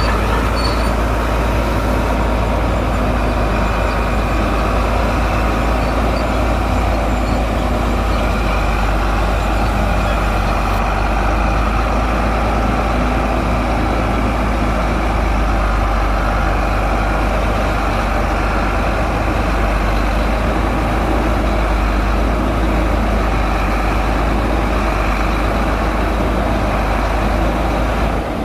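Shantui crawler bulldozer's diesel engine running steadily with a strong low rumble, the level dropping slightly right at the end.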